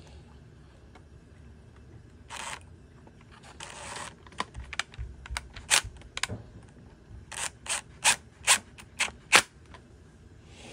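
Hand work on a string trimmer during reassembly: a couple of brief rustling scrapes, then a run of about eight sharp, irregular clicks and knocks of tools and plastic parts.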